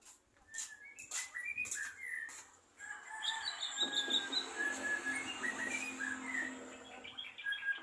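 Songbird singing: a rapid run of chirps and whistled notes, with a few sharp clicks early and a lower drawn-out sound underneath in the middle.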